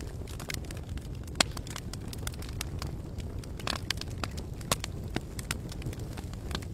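Wood campfire crackling with frequent sharp pops over a steady low rumble, the loudest pops about a second and a half in and near five seconds, and a brief hiss in between.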